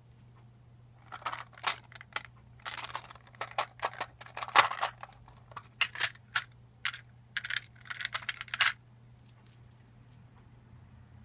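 Hard clicks, taps and short metallic rattles of a replica lightsaber hilt and its parts being handled during disassembly, in irregular clusters, over a faint steady low hum.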